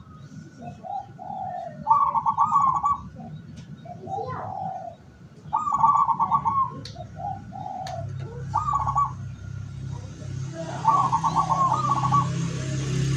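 Zebra doves cooing: quick rattling trills of staccato coo notes, four phrases about two to three seconds apart, with softer, lower coos between them.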